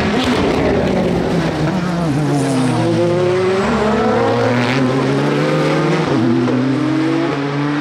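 Endurance race car engines going past at speed, several notes overlapping. The pitch falls at first, then climbs steadily, drops sharply at a gear change about six seconds in, and climbs again.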